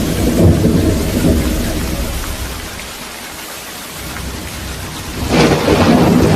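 Thunderstorm with steady rain: a roll of thunder rumbles and fades away, then a new thunderclap cracks about five seconds in and rolls on loudly.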